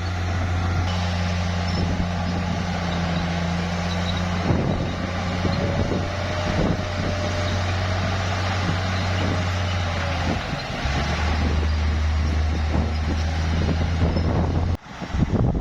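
Heavy bulldozer's diesel engine running steadily at work, with scattered clanks and a faint whine that rises and falls in the middle. The engine note shifts about two-thirds of the way through, and the sound breaks off abruptly near the end.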